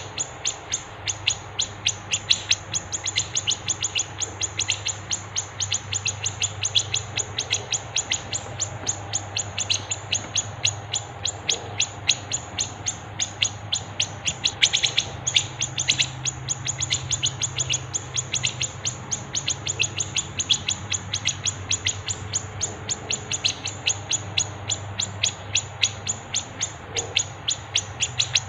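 Small songbirds chirping in a rapid, steady series of short high chips, about four or five a second, over a faint low hum. This is a masteran bird-tutor recording mixing brown-cheeked bulbul (cucak jenggot), fighting sparrows and siri-siri calls.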